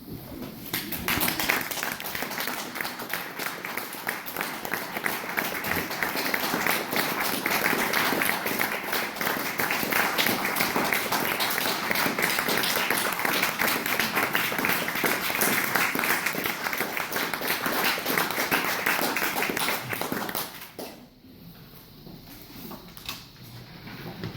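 Audience applauding, a dense steady clatter of many hands that stops a little before the end.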